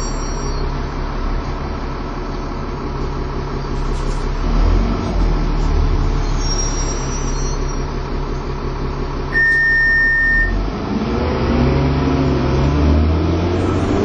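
Dennis Trident 2 double-decker bus heard on board, its engine and driveline running at a steady pace. A single steady beep sounds for about a second two-thirds of the way through. The engine pitch then rises as the bus accelerates.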